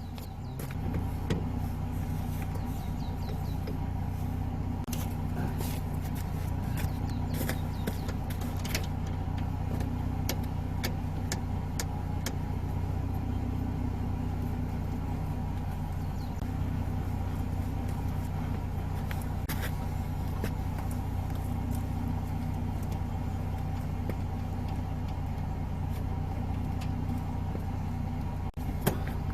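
Jeep Gladiator pickup's engine idling steadily, with scattered sharp clicks and knocks over it.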